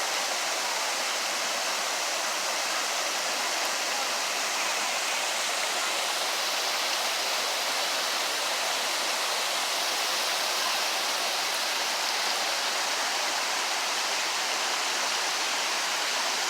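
Rushing water of a creek or small waterfall, a steady even rush that holds without change.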